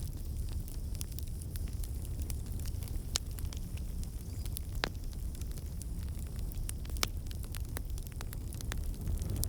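Fire crackling in a fireplace: a steady low rush of flames with scattered sharp pops, the loudest about three, five and seven seconds in.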